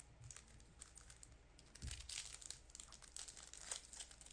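Trading cards being handled up close: quick light clicks and rustles as the cards are flipped through and slid against one another, a little louder about two seconds in.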